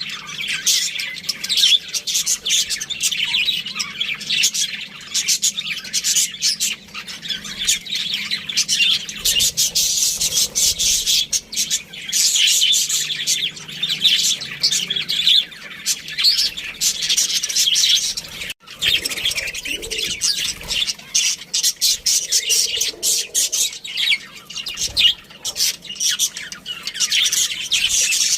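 Budgerigars chattering: a dense, continuous stream of quick high chirps and warbles, with a momentary break about two-thirds of the way through.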